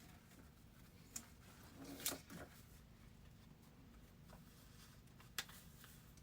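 Near silence: small-room tone with a faint steady hum and a few brief faint clicks and rustles.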